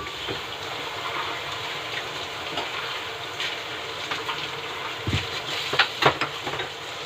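Chicken sizzling in a frying pan, a steady hiss, with a few sharp knocks about five and six seconds in.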